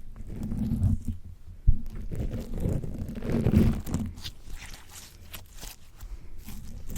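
Slime squished and pressed against a microphone: muffled low squelches and thumps, a sharp knock a little under two seconds in, then sticky crackling and small popping clicks as it pulls away.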